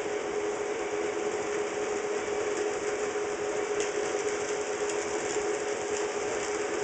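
HO scale model trains running on DC: the small electric motors and gearing give a steady hum, with a few faint clicks from wheels on the track.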